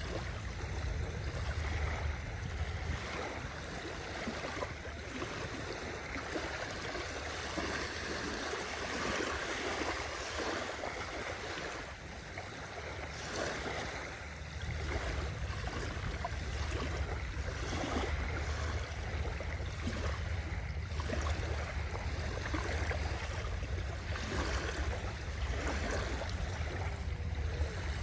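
Sea waves washing and splashing, irregular and continuous, over a steady low rumble.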